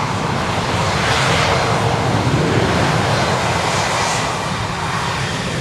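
Fixed-wing aircraft engines running with a steady, broad roar.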